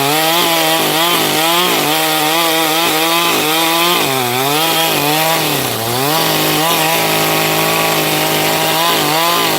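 Chainsaw engine running at high speed while cutting firewood, its pitch sagging briefly under load twice around the middle.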